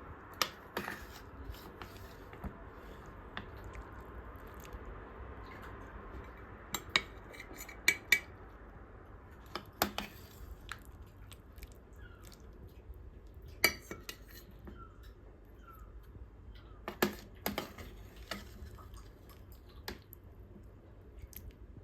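Cutlery and cookware clinking: a scattering of sharp clinks and knocks of utensils against a pan and dishes, with a low steady hum underneath.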